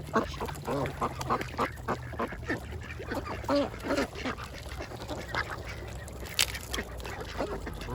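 Several ducks quacking in many short, overlapping calls while feeding, with scattered clicks and one sharp click about six seconds in.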